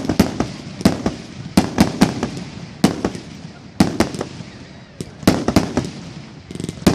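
Fireworks display: a rapid series of sharp bangs, often in close pairs or threes, two or three a second, each followed by a low rumbling echo.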